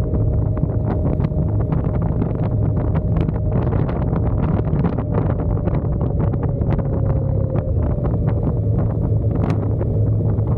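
Wind buffeting and crackling on the microphone of a moving motorcycle, over the steady drone of its engine. A constant whine runs underneath and dips slightly in pitch about three quarters of the way through.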